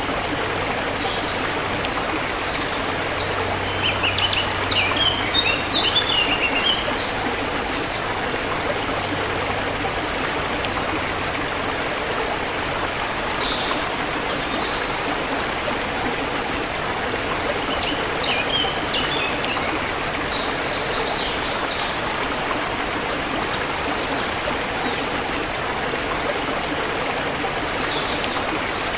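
Forest river water flowing steadily, with small birds chirping over it in several short clusters of calls, the loudest group a few seconds in.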